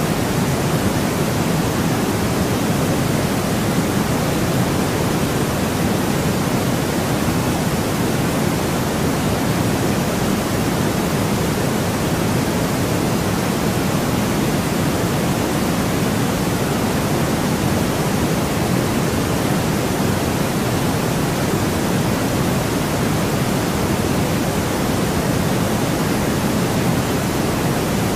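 Steady white noise played for sleep: an even hiss with no change or pattern, weighted toward the low end.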